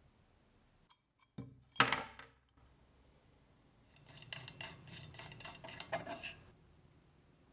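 A metal object set down with a sharp clank that rings briefly, then a couple of seconds of rapid metallic clinking and scraping as metal parts are handled.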